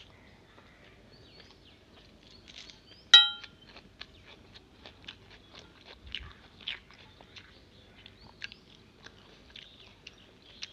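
Close-up eating sounds: chewing and small wet mouth clicks of someone eating rice by hand. About three seconds in comes one sharp clink with a short ring, the loudest sound.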